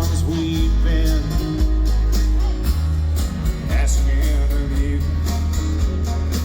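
Live acoustic country band playing an instrumental passage: strummed acoustic guitars over a steady bass, with a sliding lead melody line.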